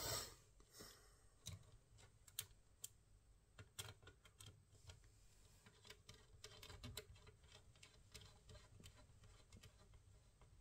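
Faint, irregular small clicks and light taps, with a louder knock or bump at the very start.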